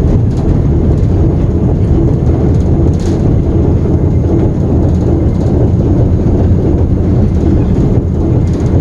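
Diesel switcher locomotive's engine running under power, a loud steady rumble heard from inside the cab as the locomotive rolls along the track.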